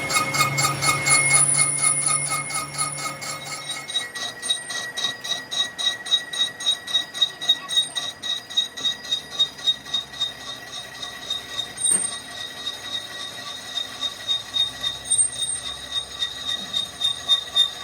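Metal being cut on a machine tool: a steady high squeal that pulses about two to three times a second.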